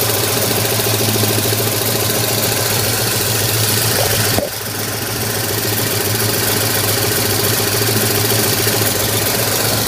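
Ford 351 Cleveland V8 engine idling steadily with a whirring noise over the engine hum. About four seconds in, the sound drops suddenly and then slowly builds back.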